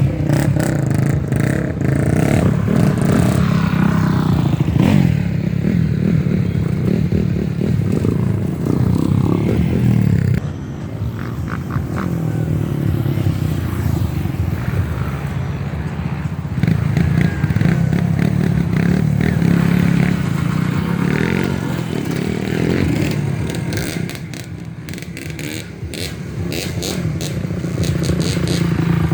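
Off-road trail motorcycle engines running and revving, the engine note rising and falling. It eases off briefly about ten seconds in and again a few seconds before the end.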